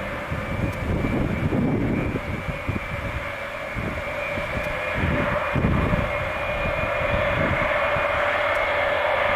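Douglas DC-8's Pratt & Whitney JT3D turbofans running: a steady high-pitched scream over a rough, uneven low crackle.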